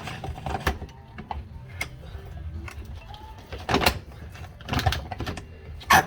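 A series of clanks and knocks from the outboard motor being handled onto a metal kicker bracket. They come in a few clusters, and the loudest, sharpest knock falls near the end.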